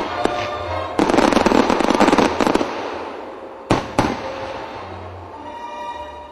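Fireworks going off: a dense mass of crackling that jumps up about a second in and dies away, then two sharp bangs in quick succession. Orchestral music comes up faintly near the end.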